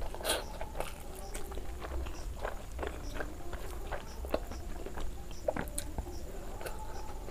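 Close-up chewing and wet mouth sounds of a person eating rice by hand, with many small irregular smacks and clicks.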